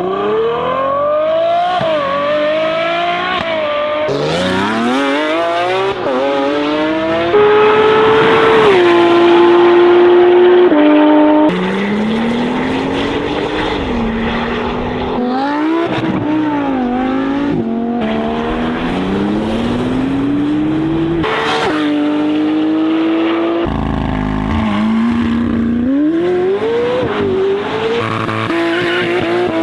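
A rapid series of short cuts of loud supercar and sports car engines accelerating and revving hard. In each, the engine note climbs and drops with gear changes, then breaks off abruptly into the next car, about every three or four seconds.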